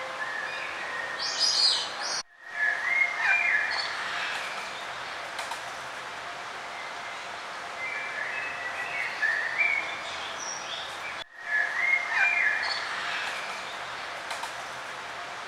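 Several songbirds chirping and trilling over a steady outdoor hiss. The sound briefly cuts out twice, about nine seconds apart, as if the recording loops.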